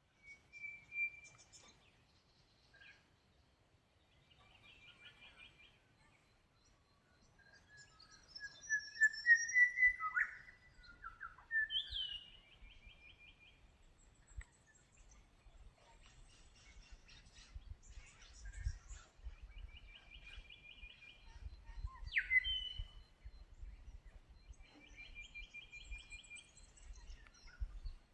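Several wild birds calling and singing: repeated short trills, a rising run of notes about eight to ten seconds in, and a few sharp down-slurred calls.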